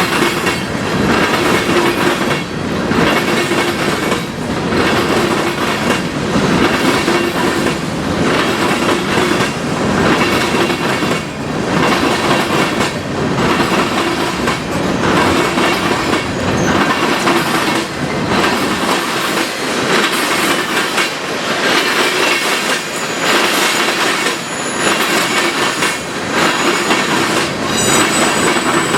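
A train passing close by. Its wheels clack over the rail joints in a steady repeating rhythm, and a thin, high wheel squeal comes in near the end.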